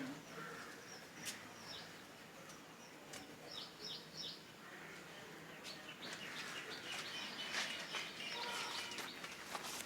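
Small birds chirping outdoors: a few short, high, falling chirps about three and a half seconds in, then a busier run of chirps and clicks in the second half.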